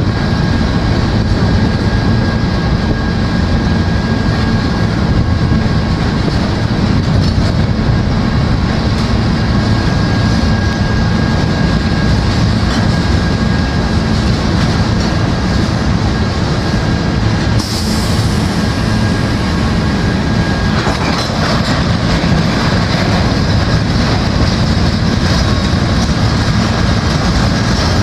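Train of empty covered grain hopper cars rolling past, a steady rumble and clatter of steel wheels on the rails. A thin, steady high whine rides over it and fades out about three-quarters of the way through.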